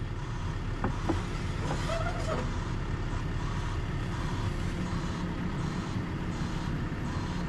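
Komatsu excavator's diesel engine running steadily, with a couple of light knocks about a second in.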